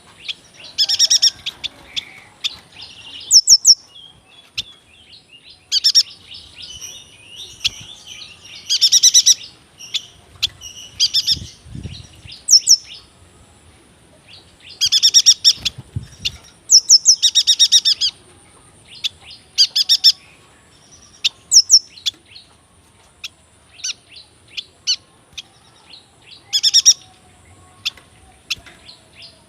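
Yuhina singing its long rolling song: repeated bursts of high, fast chirps and quick trills broken by short pauses.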